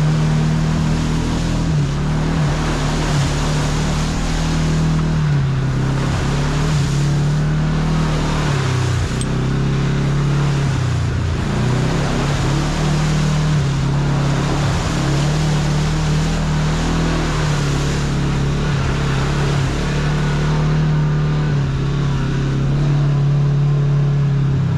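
Kawasaki KRX side-by-side's engine running while driving, its pitch rising and falling repeatedly as the throttle changes, over steady tyre and trail noise.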